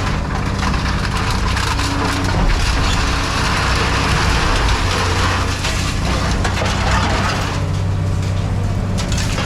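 Hydraulic scrap-metal crushing machine working: its power unit runs with a steady low drone while scrap metal crunches and cracks under the press. The crunching eases off about three quarters of the way through, leaving the machine running.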